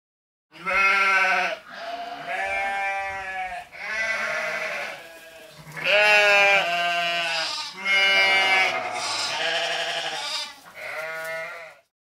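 Sheep bleating: a run of about seven quavering bleats, one after another with short gaps, starting about half a second in.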